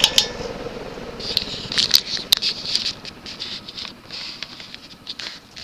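The hum of a Moss WF Series ceiling fan's spinner motor dies away within the first second, followed by a run of irregular light clicks and rattles.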